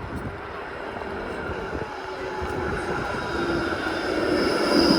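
A rail vehicle approaching: a steady rumble that grows louder, with a high whine and a lower tone coming in over the second half.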